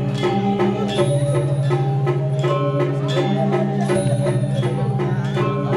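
Balinese gamelan playing: metallophones ringing over drums and cymbals in a fast, steady, even rhythm.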